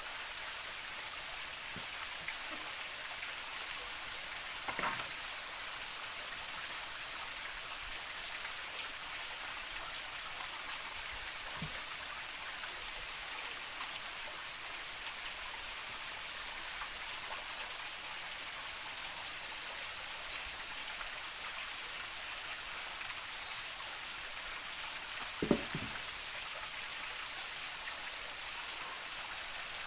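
Outdoor forest ambience dominated by a steady high-pitched insect chorus, with a few soft knocks about 5, 12 and 25 seconds in.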